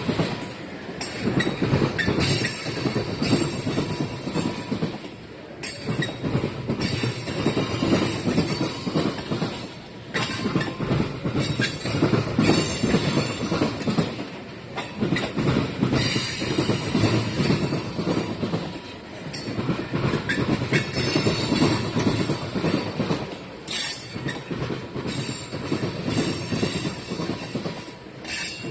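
Freight cars of a slow oil train rolling past, their wheels clacking over the rail joints. The loudness swells and dips about every four and a half seconds as each car goes by, and a high wheel squeal comes and goes.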